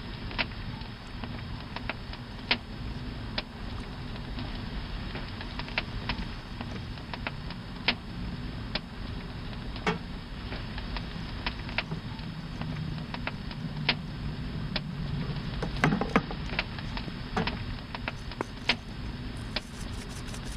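Campfire burning, with irregular sharp crackles and pops from the burning wood over a steady hiss.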